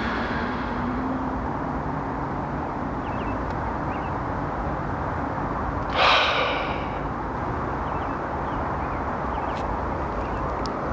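Steady outdoor background of distant road traffic, with a brief breathy rush about six seconds in.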